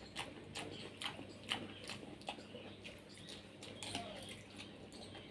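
Wet mouth clicks and smacks from eating soft, juicy palm fruit (ice apple) flesh close to the microphone. The clicks are faint and irregular, about two a second.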